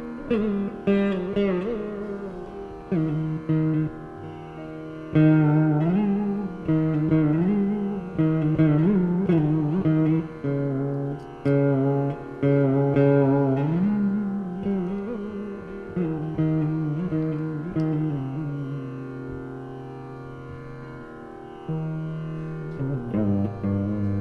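Veena playing a Carnatic melody in raga Khamas: plucked notes that slide and waver in pitch, each fading after it is struck. Near the end one note is left to ring and fade for a few seconds before new plucks begin.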